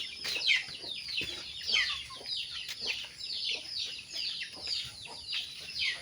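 Chicks peeping: a continuous run of short, high, falling peeps, about three a second.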